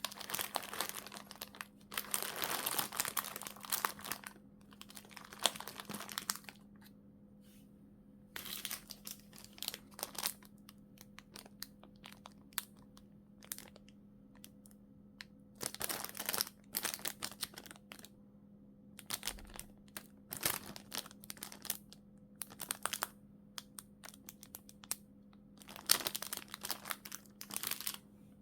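Plastic packaging bags crinkling and rustling in irregular bursts as they are handled and opened, with a faint steady hum underneath.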